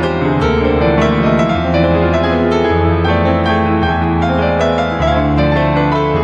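Gentle piano music, with held low notes that change about every second under slower melody notes.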